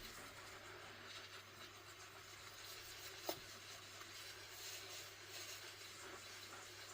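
Near silence: room tone with a low steady hum and one faint click about three seconds in.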